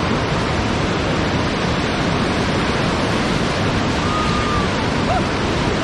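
Whitewater river rapids rushing: a loud, steady wash of water noise.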